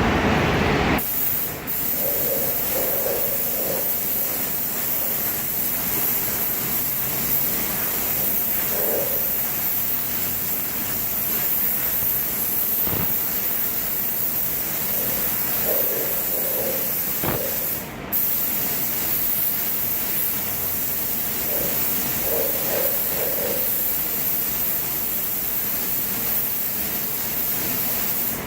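Paint spray gun hissing steadily as it sprays clear coat, over the steady running of the paint booth's exhaust fan. The spray breaks off briefly about a second and a half in and again about eighteen seconds in.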